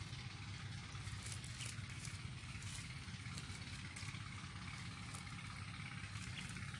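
Steady rain falling on flooded paddy water, with scattered small drips and splashes over a low steady rumble.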